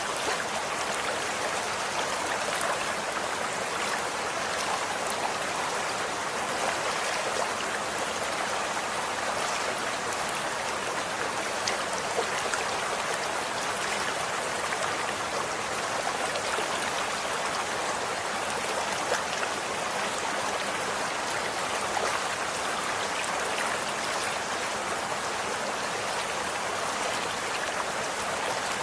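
Running water flowing steadily over stones, a continuous rushing with small splashes scattered through it.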